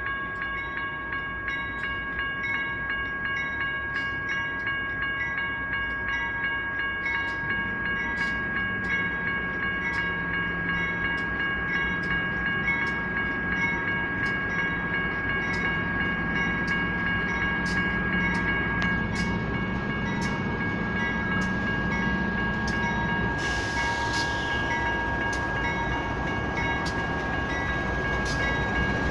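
Railroad crossing's electronic bell, a General Signals Type 1, ringing steadily, while a diesel train's rumble joins in and grows louder. A brief hiss comes near the end.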